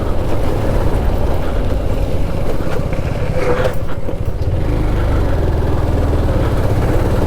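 Motorcycle running on the move, with steady road and wind noise.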